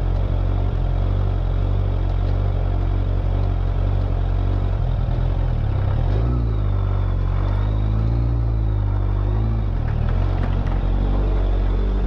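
Motorcycle engine running at low revs, a steady low drone whose pitch dips and rises a little about halfway through as the throttle is worked at walking pace.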